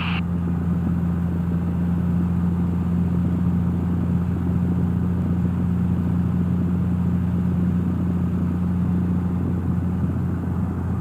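Cessna 172's engine and propeller droning steadily at cruise power, heard inside the cockpit.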